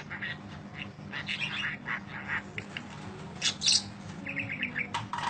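Budgerigar chattering: a string of chirps and squawks, with two louder shrill calls about three and a half seconds in, followed by a quick run of short chirps.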